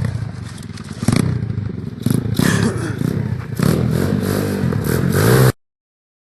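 Small motorcycle engine running and revving, its pitch rising and falling, with clatter mixed in. The sound cuts off suddenly about a second before the end.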